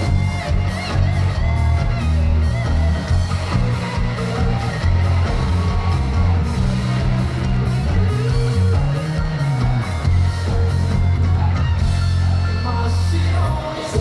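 Rock band playing live: electric guitar over heavy bass and drums, with regular drum hits.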